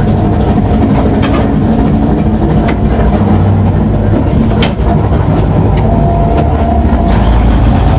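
Drag race car's engine idling loudly, heard from inside the caged cabin, with a few sharp clicks over the steady rumble.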